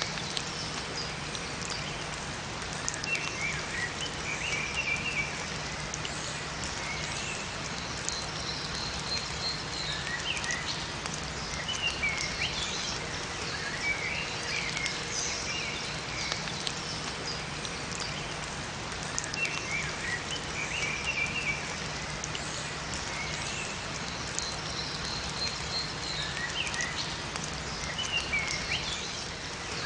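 Steady rain falling in a forest, with small songbirds chirping short bursts of notes every few seconds.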